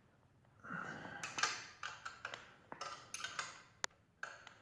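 Irregular metallic clicks and clinks of a wrench working on the exhaust header bolts as they are snugged up, with one sharp ping a little before the end.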